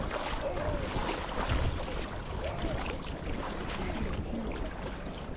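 Steady rush of a swollen river, an even noisy roar with wind buffeting the microphone. A few faint short calls rise over it now and then.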